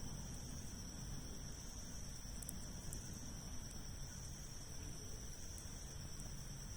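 Wood campfire burning with a few faint crackles, under a steady high-pitched insect drone.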